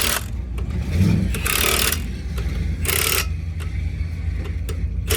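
A steady low engine rumble, with three short bursts of hiss.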